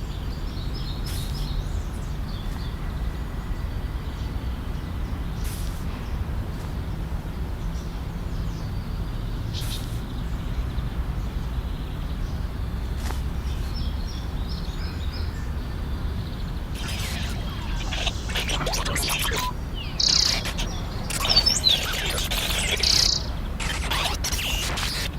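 Birds chirping over a steady low outdoor rumble. The chirps are sparse at first, then come thicker in the last third, where a few short, louder ones stand out.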